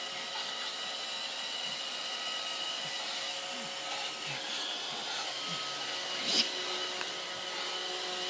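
Roomba robot vacuum running across carpet: a steady whir of its motors and brushes with a thin whine over it, and a brief knock about six seconds in.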